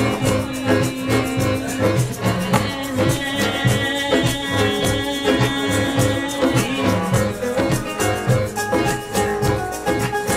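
A band playing a Latin-flavoured song with a steady beat, a rattling shaker and guitar.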